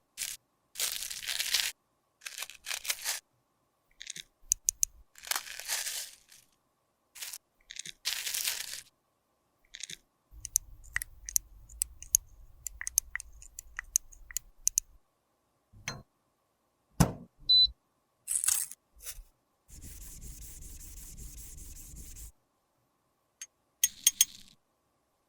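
Close-up sounds of makeup being worked by hand: short scraping and crushing strokes, then scattered sharp clicks and taps of tools and cases, with a few loud knocks about two-thirds of the way through.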